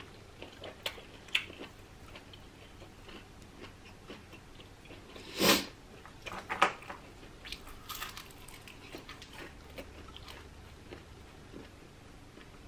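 Close-up mouth sounds of someone eating seafood: biting and chewing with scattered small wet clicks, and one louder, sharper noise about halfway through.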